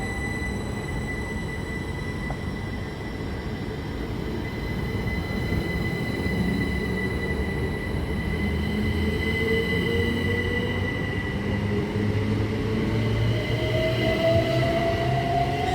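Class 387 electric multiple units (two coupled sets) running on the line, an electric traction whine rising in pitch as the train gathers speed over steady high whistling tones and a rumble that grows louder toward the end.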